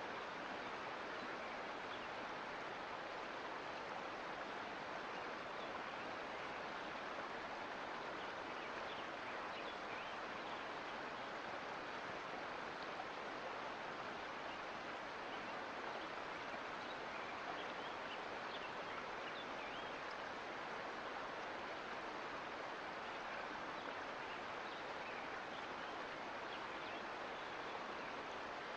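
Sierra Nevada mountain creek flowing over rocks: a steady rush of running water with small splashes through it.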